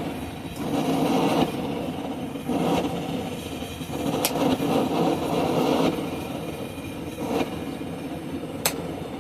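Blacksmith's forge fire running with a steady roar that swells and eases, and two sharp metal strikes about four seconds apart as hot steel is worked with a hammer and hot cut chisel.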